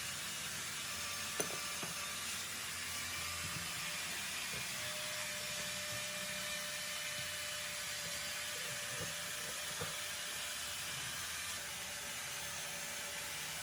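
A steady mechanical whirring hiss with a faint steady tone, broken by a few light clicks and one sharp tick about a second and a half in.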